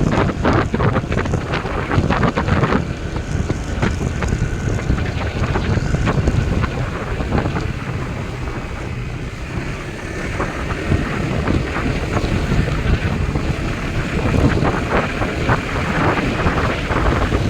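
Strong wind buffeting the microphone: a steady, heavy rumble broken by crackling gusts.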